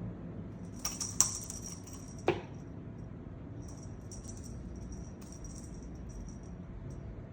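A small bell jingles off and on as a cat plays by itself, with a few sharp knocks about a second and two seconds in.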